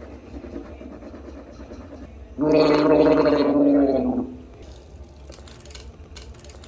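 A person gargling mouthwash: one loud gargle of about two seconds, a throaty hum with bubbling, starting a little over two seconds in, followed by a few faint clicks.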